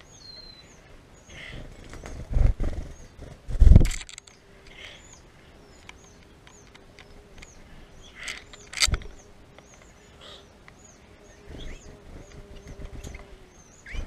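A small bird chirping over and over, short high chirps about twice a second. Several loud low thumps and flutters come from a bird landing and flapping at a hanging tube seed feeder close to the microphone, the loudest about two and a half, four and nine seconds in.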